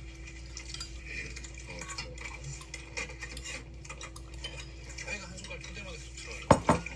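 Cutlery clinking and scraping against a plate or bowl while eating, light clicks throughout, then two sharp, louder clinks near the end.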